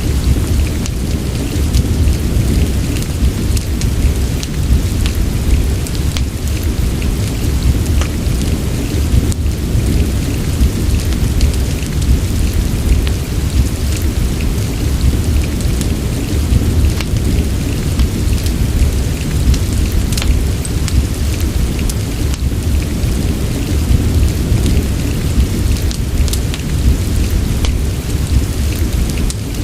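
Steady rain mixed with a crackling fireplace: a deep, even rumble with many scattered sharp crackles and pops.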